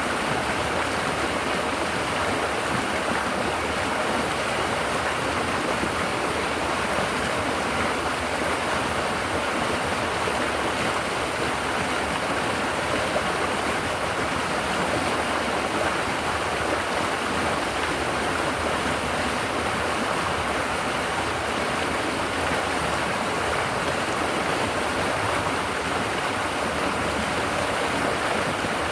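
River water babbling steadily as it flows over rocks.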